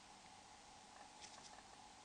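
Near silence: faint hiss with a steady faint hum, and a few faint ticks a little over a second in.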